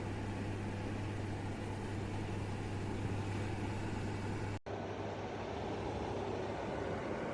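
Portable electric fan heater running: a steady rush of air with a low hum. The sound drops out abruptly about four and a half seconds in, then the airflow continues without the hum.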